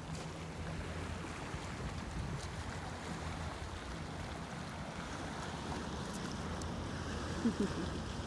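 Steady rushing wind noise on the microphone, with low rumble. A brief short sound, gliding in pitch, comes about seven and a half seconds in.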